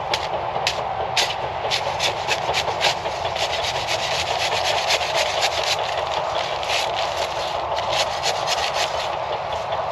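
Kioti CK2610 compact tractor's diesel engine running steadily, with rapid irregular clicks and rattles over it.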